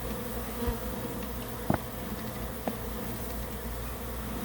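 Honeybee colony buzzing steadily around a newly installed hive, with a few short clicks, the sharpest just under two seconds in.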